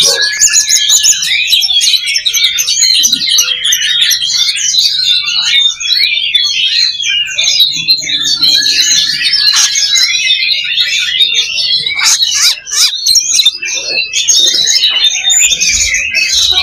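Several oriental magpie-robins singing loudly at once in a dense, unbroken chorus of rapid whistles, chirps and trills, the competitive song of contest birds.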